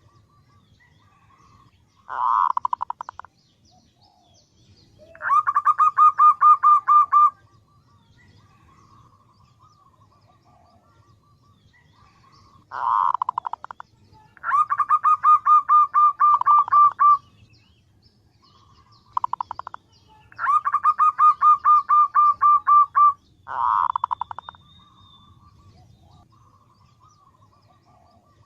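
Female zebra dove calling: bursts of rapid, evenly repeated coo notes. Three times a short rough burst is followed by a longer run of about two to three seconds.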